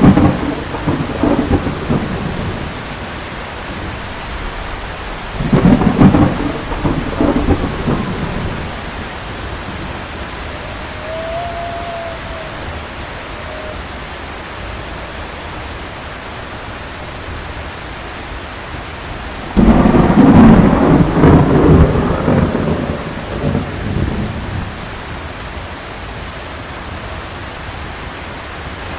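Steady heavy rain with rolling thunder. One roll is already fading at the start, another comes about six seconds in, and the longest and loudest about twenty seconds in, rumbling on for several seconds.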